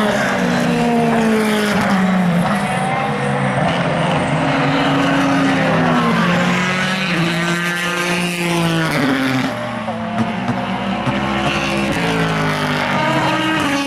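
Endurance race cars passing one after another at speed, their engine notes sweeping up and down as they come by and gear through. One passes close about halfway through, its note climbing and then dropping away.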